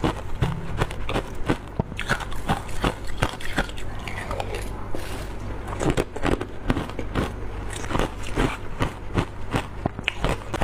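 Bites into wet, frozen matcha ice: irregular sharp cracks and crunches, several a second.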